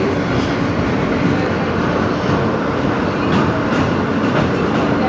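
Inside an R160B subway car running at speed: a steady rumble of steel wheels on rail with a low hum and a few faint clicks.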